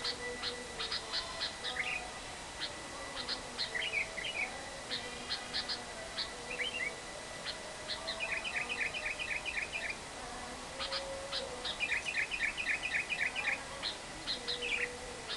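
Lovebirds chattering: sharp high chirps and rapid trills of about eight to ten notes a second, the long 'ngekek' chatter of a lovebird in full song.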